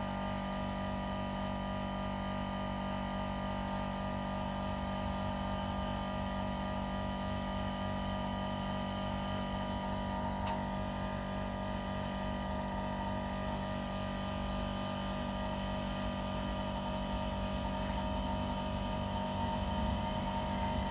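Homemade air compressor running with a steady, even hum.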